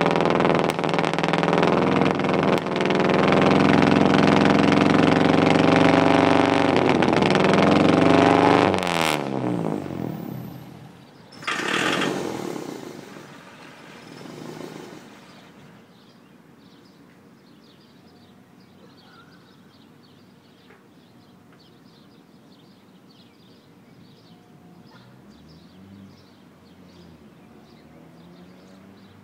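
Car engine being run on a Seafoam engine treatment, running loudly and getting louder a little over two seconds in. About nine seconds in it is shut off and its pitch falls away as it spins down. A short rush of noise follows near twelve seconds, then quiet outdoor background with faint bird chirps.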